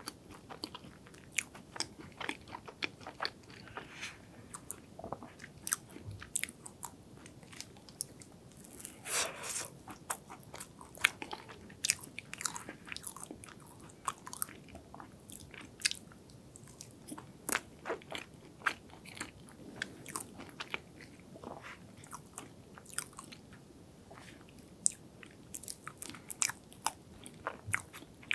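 Close-miked chewing of soft, creamy hazelnut chocolate cake: many sticky, wet mouth clicks and smacks, several a second and irregular, with a few louder ones.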